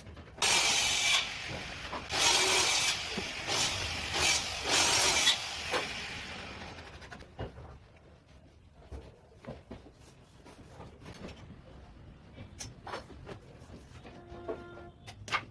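Edge banding being worked onto a wooden panel by hand: three or four loud rubbing, scraping strokes in the first five seconds or so, then quieter scrapes and light clicks.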